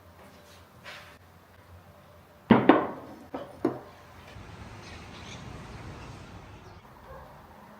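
A few household knocks: one loud sharp knock with two smaller ones close after it, then a soft, even noise for a couple of seconds.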